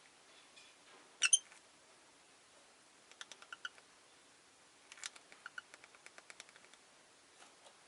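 Rose-faced lovebird giving one short, sharp chirp about a second in, then two runs of rapid soft clicking chatter.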